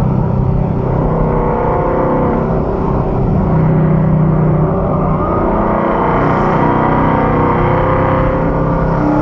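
The V8 of a 2015 Mustang GT and its road noise, heard inside the cabin while it cruises steadily at about 65 mph.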